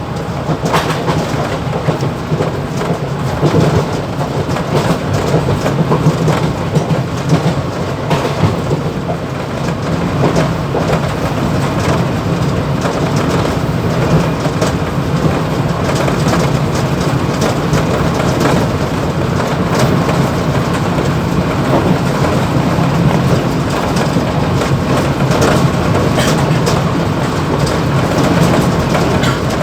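Mumbai suburban EMU local train running between stations, heard from inside the motorman's cab: a steady rumble and rail noise with many small knocks and rattles, a little louder and steadier after about ten seconds.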